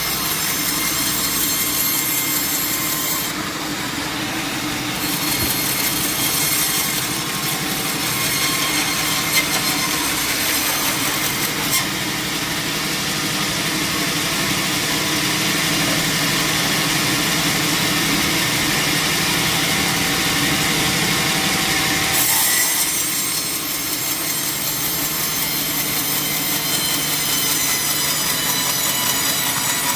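Sawmill saw cutting through a log: a continuous, steady sawing noise whose high hiss drops off about two-thirds of the way through.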